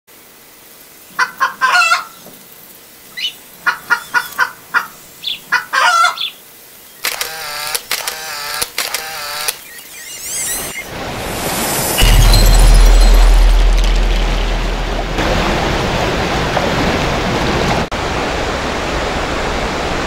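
Groups of short bird calls, like hens clucking, followed by a warbling call and a few rising chirps. About twelve seconds in, a loud, steady rushing noise with a deep rumble starts suddenly and carries on.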